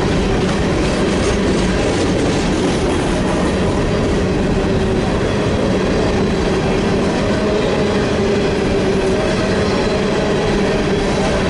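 A freight train rolling past: a loud, steady rumble of wheels on the rails that holds level throughout.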